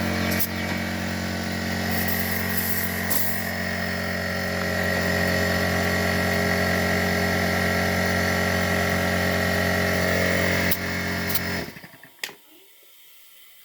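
Air compressor motor running steadily with a humming whine while inflating the tyre up to its pressure, then shutting off suddenly about twelve seconds in.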